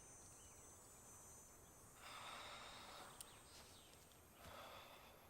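Near silence, with a faint hiss about two seconds in and again near the end.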